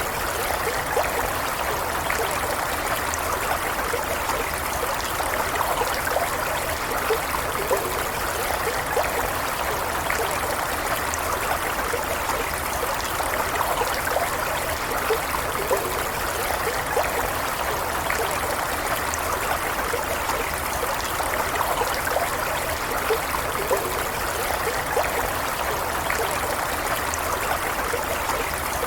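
A stream running steadily, with gentle trickling and small splashes over an even rush of water.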